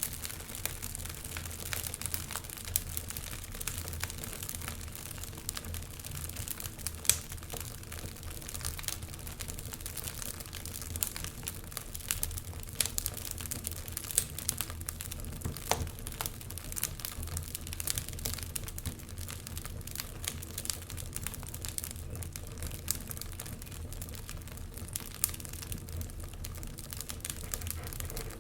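Wood fire burning in a fireplace, crackling with many irregular sharp pops and snaps over a low steady rumble of the flames; one louder crack about seven seconds in.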